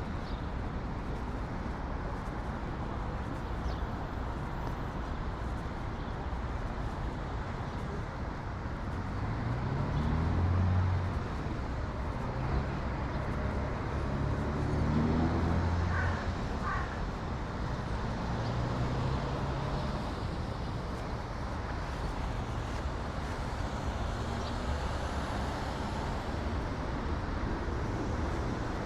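City traffic ambience: steady road noise with the engine hum of passing vehicles, which swells about ten seconds in and again around fifteen seconds.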